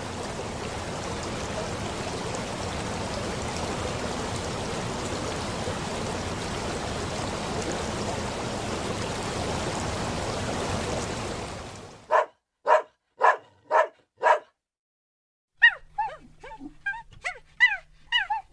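A steady rushing noise that stops about twelve seconds in. A dog then gives five short barks about half a second apart, and after a brief pause a quick run of high yips.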